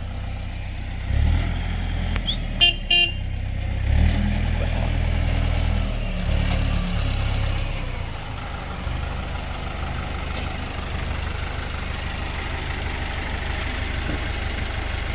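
Loader tractor's engine running as the machine moves, with the revs rising about a second in and again around four seconds, then settling steadier. Two short high-pitched tones sound close together near three seconds in.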